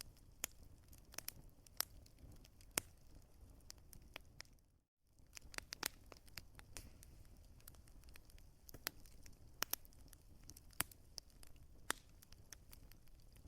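Wood fire crackling, with sharp irregular pops and snaps of burning logs over a soft low rumble. The sound drops out for a moment about five seconds in.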